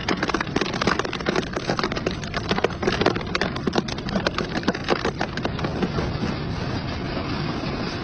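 Double-shaft shredder crunching scrap metal, a dense run of irregular cracks and snaps over the machine's steady running. About six seconds in the cracking thins out and the shredder runs on more evenly.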